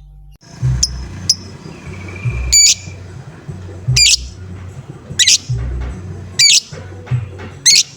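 Lovebird giving loud, shrill, harsh calls. There are two short chirps, then a call about every second and a quarter, over a low background rumble.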